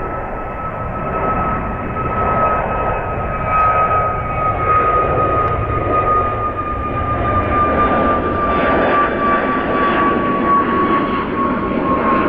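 Jet airliner taking off: a loud rushing engine noise with a high whine that slowly drops in pitch, growing louder over the first few seconds.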